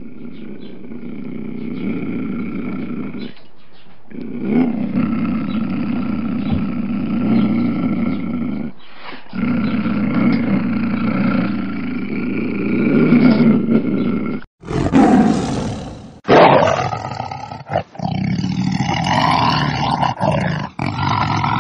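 A large wild predator roaring and growling in long, low, rough calls with short breaks between them. Near the end the sound cuts off abruptly twice and changes, as if spliced from different clips.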